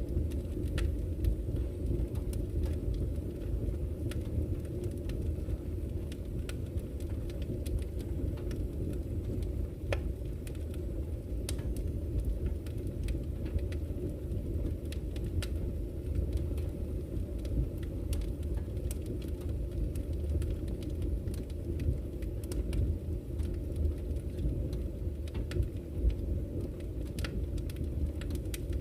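Campfire crackling, with sharp irregular pops and snaps, over the low, steady rush of a flowing river.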